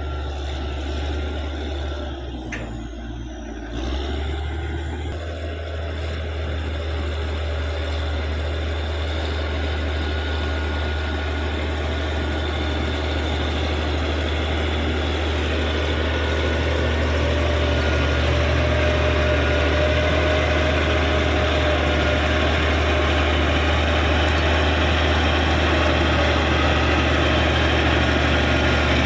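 Caterpillar D6G bulldozer's six-cylinder diesel engine running steadily with a deep hum, dipping briefly a few seconds in and then growing gradually louder as it works.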